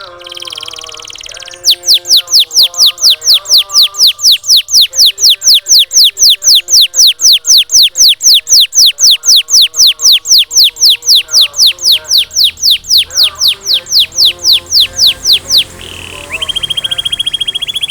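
Domestic canary singing over soft background music: a long run of loud, evenly repeated high notes, each sliding down in pitch, about four a second, then a fast trill near the end.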